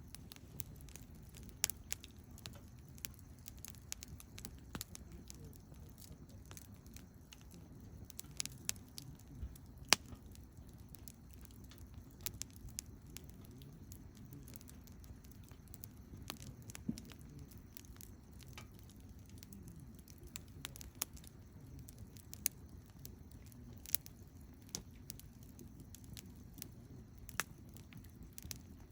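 Wood campfire burning: irregular sharp pops and crackles from the burning wood over a low steady rumble of flame, with the loudest snap about ten seconds in.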